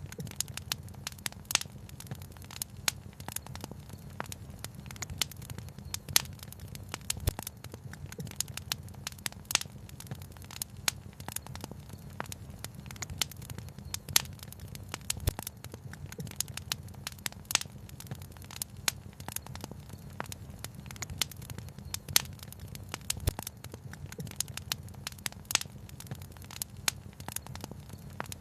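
Wood fire crackling, with frequent irregular sharp pops, over a steady low rumble.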